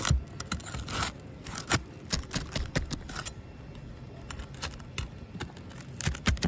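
A metal tool scraping and clicking as it works a roofing nail loose from under a brittle, sun-aged roof shingle, with irregular sharp clicks and scrapes.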